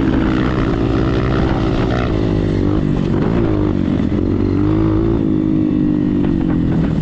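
Motocross motorcycle engine running under throttle, its pitch rising and falling several times and dropping away near the end.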